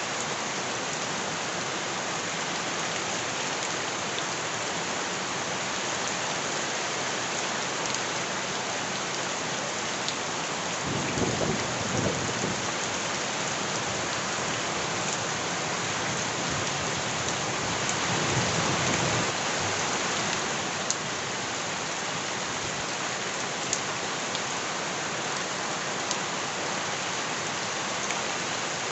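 Steady heavy rain falling on surfaces, a dense even hiss with scattered sharp drip ticks. Twice it swells with a brief low rumble, one about a third of the way in and one past the middle.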